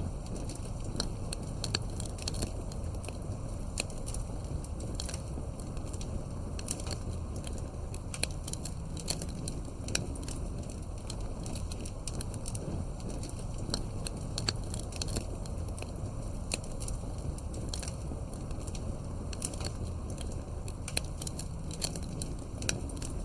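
Campfire crackling, with many small irregular pops and snaps over a steady low rumble.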